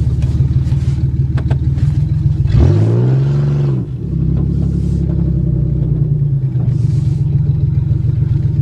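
Car engine running steadily under way. About three seconds in it revs up briefly and falls back, with a short drop in level just after.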